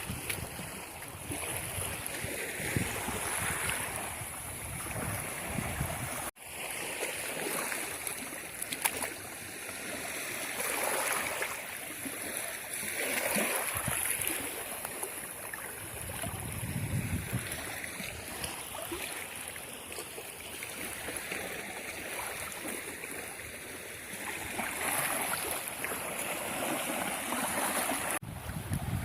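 Sea of Azov surf washing onto the beach, the rush of the waves swelling and fading every few seconds; the sea is running rough.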